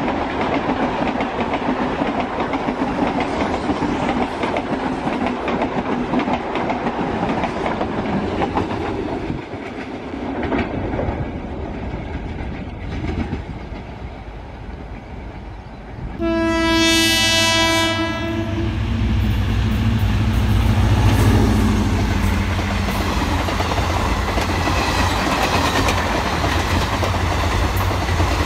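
Indian Railways trains passing at speed: first the 09101 Virar–Bharuch MEMU's wheels clattering steadily over the rails. About 16 s in, a train horn sounds one long, loud blast of about two seconds, and a heavy low rumble follows as another train passes.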